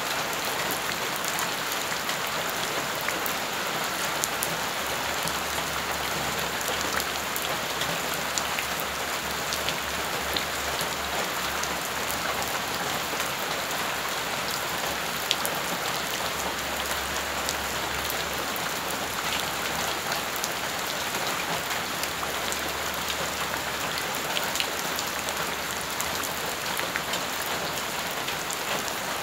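Steady rain falling onto wet, rough ground and shallow puddles, with many individual drops splashing close by as small sharp ticks.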